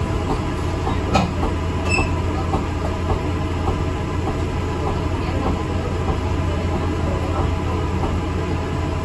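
ADL Enviro 400 MMC double-decker bus on the move, heard from on board: a steady low drone from the running gear with rattling throughout and a sharp knock about a second in.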